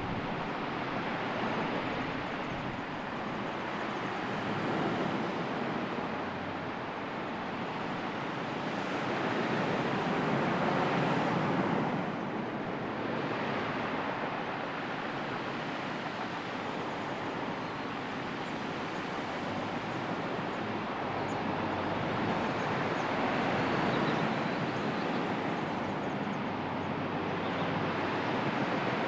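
Sea surf washing onto the shore, the noise of the waves swelling and falling back in slow surges every several seconds.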